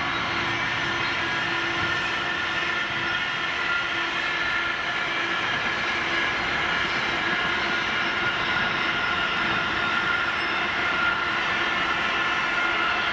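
Freight train's wagons rolling past on the climb: a steady rumble of steel wheels on the rails, with high, thin wheel-squeal tones ringing over it.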